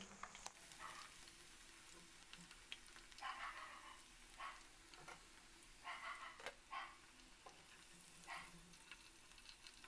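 Faint sizzling of chicken pakoda pieces deep-frying in oil, coming in short, scattered bursts over near silence.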